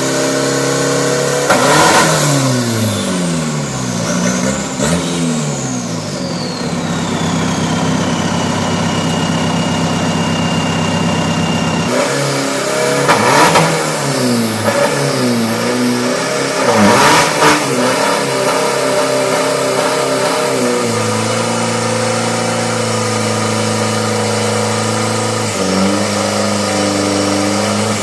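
Turbocharged 3000 cc pickup engine being revved. It blips hard about four times, with the pitch sweeping up and back down each time, and holds a steady higher speed in between.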